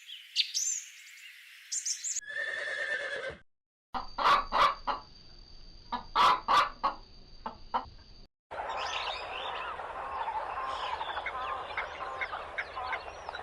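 Chickens in a run of short cut-together clips: high peeping chirps, a drawn-out squawking call, a stretch of loud sharp clucks, then a busy flock clucking and chattering together.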